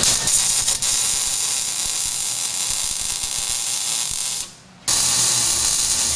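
Welding arc crackling and hissing steadily. It stops briefly about four and a half seconds in, then starts again.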